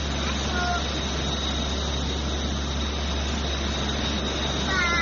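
Steady cabin drone of a Xian MA60 twin-turboprop airliner in flight, with a deep hum and a thin, high whine held steady over it. Two short high-pitched cries rise and fall, one about half a second in and one near the end.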